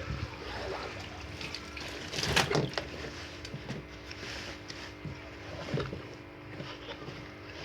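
Wet laundry being handled and loaded into the spin-dryer tub of a manual twin-tub washing machine: cloth rustling and soft knocks, loudest in a burst about two seconds in, over a steady low hum.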